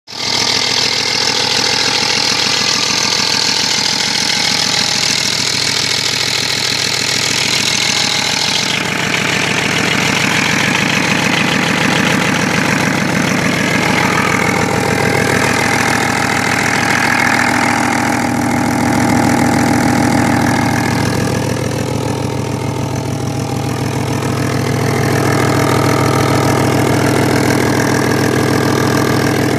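Car engine running, with a chattering noise of unknown cause that appeared after the engine and gearbox were overhauled. A high hiss stops about eight seconds in, and the engine note shifts twice.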